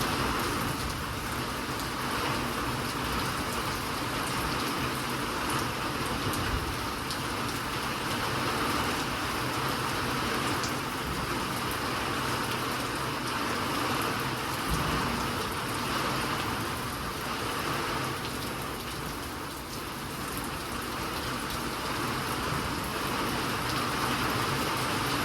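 Steady rain falling: an even hiss with many small drop impacts scattered through it.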